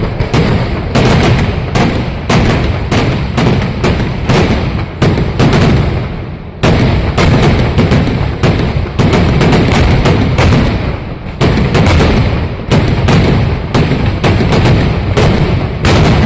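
Fireworks going off in a fast, continuous string of loud bangs, several a second, with a brief break about six and a half seconds in before the bangs resume.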